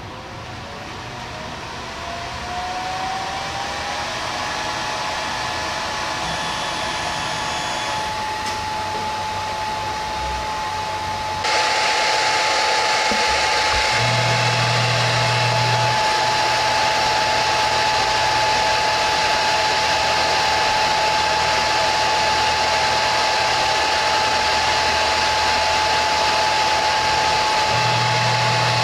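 CNC router spindle spinning up, its whine rising in pitch for about four seconds and then holding steady. A loud hissing rush joins it suddenly about eleven seconds in and keeps on, with a low hum that comes and goes.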